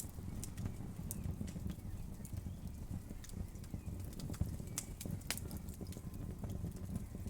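Wood fire crackling and popping: irregular sharp snaps over a steady low rumble of burning, with a couple of louder pops about four and five seconds in.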